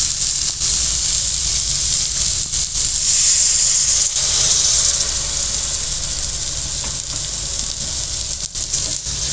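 Spiced onion-tomato curry masala sizzling in a hot pan, with water poured in from a cup that sets off a louder hiss of steam a few seconds in.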